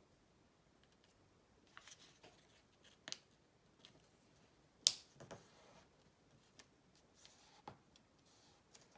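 A sheet of paper being handled and folded: scattered soft rustles and crinkles of creasing, with one sharper crackle about five seconds in.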